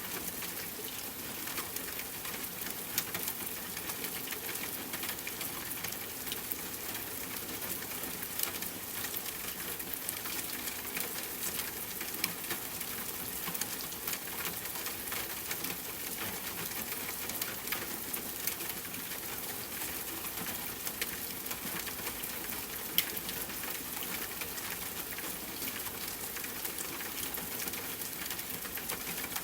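Steady rain falling on a tent, with scattered sharp crackles and pops of a campfire.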